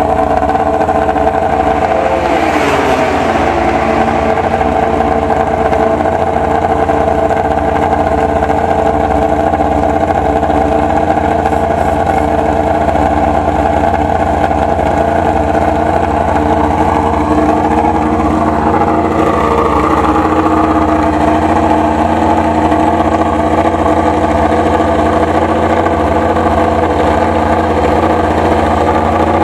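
Yamaha YZR-M1 MotoGP bike's crossplane inline-four engine idling steadily.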